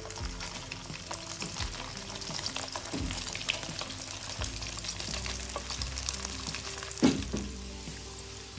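Smashed sausage slices sizzling and crackling in hot oil in a wok, just dropped in to fry. A single loud knock comes about seven seconds in.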